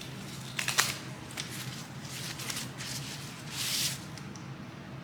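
Packaging being handled while a small camera light is unboxed: a few sharp clicks just under a second in, then a brief crinkling rustle of wrapping about three and a half seconds in.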